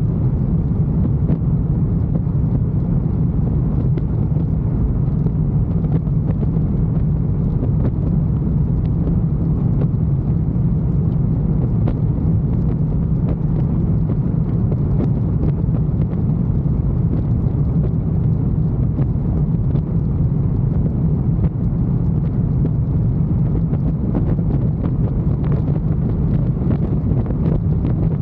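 Steady low rumble of a motorcycle being ridden at an even speed, with engine and wind noise blended together.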